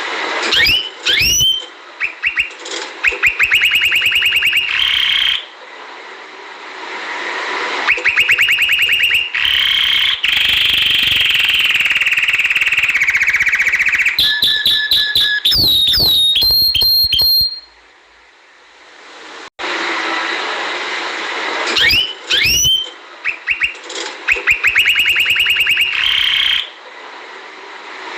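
Domestic canary singing a long song of fast trills, rapidly repeated notes and rising whistled sweeps, broken by a pause of about two seconds past the middle.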